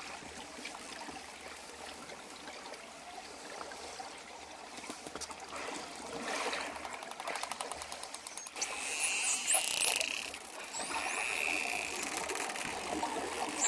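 Dolphins clicking and whistling over a steady wash of water: rapid click trains about halfway through, then high gliding whistles that rise and fall in the second half, which is louder.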